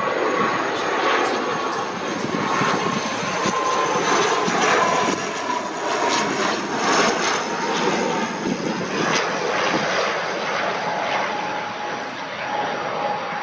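Jet airliner's engines running as it passes close by, a rushing roar with a steady whine that slowly falls in pitch.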